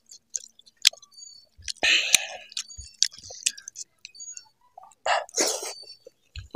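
Close-up mouth sounds of a person eating rice and pork in gravy by hand: scattered wet clicks and smacks of chewing, with two short breathy bursts about two and five seconds in.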